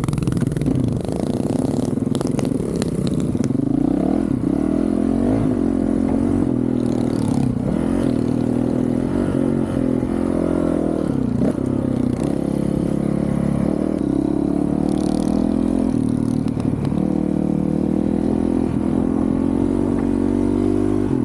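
2023 Honda CRF450RL's single-cylinder four-stroke engine, breathing through a titanium Yoshimura RS-4 exhaust, being ridden: the engine note climbs and falls with the throttle, with a brief drop every few seconds as the throttle is chopped or a gear is changed.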